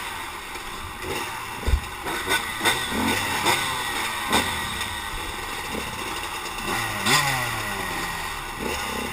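Several small racing engines revving and accelerating, their pitches rising and falling across one another, with scattered sharp knocks and clatter.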